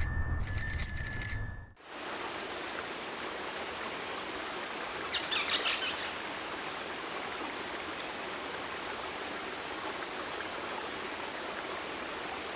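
Steady rushing of running water, like a stream, with faint scattered bird chirps and a short burst of chirping about five seconds in. It opens with a loud sound of steady high ringing tones over a low hum that cuts off abruptly just under two seconds in.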